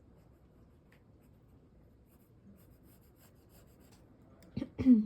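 Pencil drawing on paper: faint, steady scratching strokes. Near the end come two sharp knocks, then a brief low vocal sound that falls slightly in pitch.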